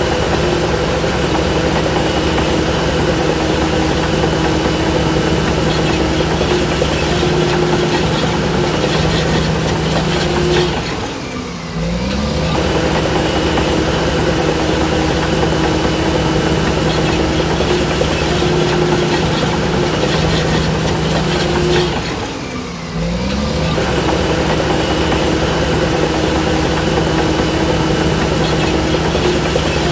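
Crawler bulldozer (Shantul DH17C3) diesel engine running hard under load, with steady track clatter. Twice the engine note drops briefly and climbs back up.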